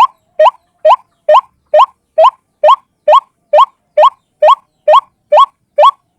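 White-breasted waterhen call: a short rising note repeated evenly about twice a second, like a single bird calling steadily.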